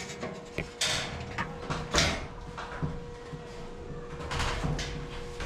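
Metal ceiling framing being handled, with irregular scrapes and knocks of the metal pieces, the loudest about 1, 2 and 4.5 seconds in, over a steady low hum.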